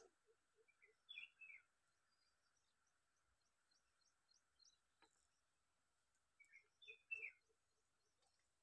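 Near silence with faint bird calls: two short bursts of chirping, about a second in and again around seven seconds. A brief click right at the start.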